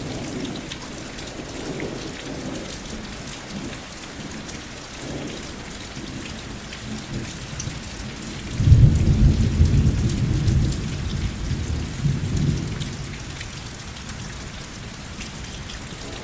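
Steady rain falling, with a low rumble of thunder that starts abruptly about halfway through and rolls for several seconds before fading. At the start the tail of an earlier rumble dies away.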